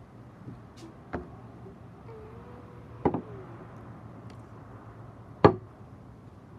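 Three sharp knocks about two seconds apart, the last one loudest, like objects being set down on a hard surface.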